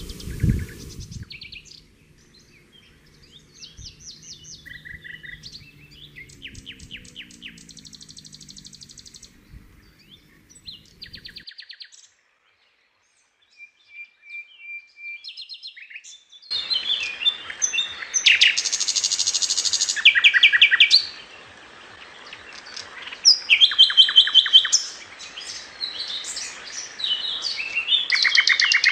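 Wild birds chirping and trilling, several different calls in turn. About twelve seconds in the sound drops out completely for a moment. From about sixteen seconds a steady hiss sets in beneath loud, rapid trills that come in bursts of two or three seconds.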